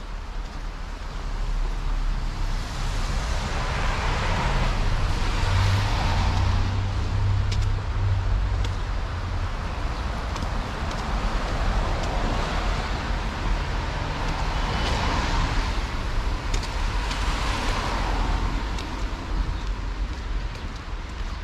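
City street traffic: cars passing by, with two swells of tyre and engine noise, one a few seconds in and another about two-thirds through, over a steady low rumble.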